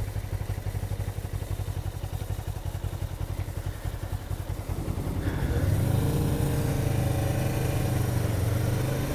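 Motorcycle engine running with a low, even pulse, then louder and rising in pitch as it accelerates from about five seconds in.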